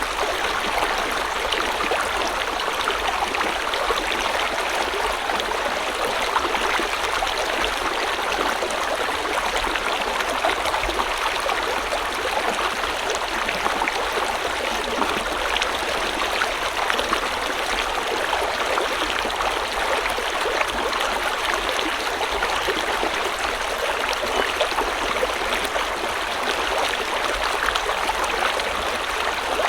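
A river or stream flowing steadily over rocks: an even rush of water with fine splashing and gurgling.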